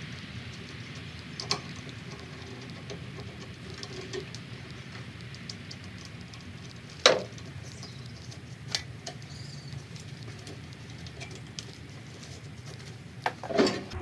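Scattered clicks and knocks of hand tools against metal parts of a riding mower during disassembly, the loudest about seven seconds in and a few close together near the end, over a steady low hum.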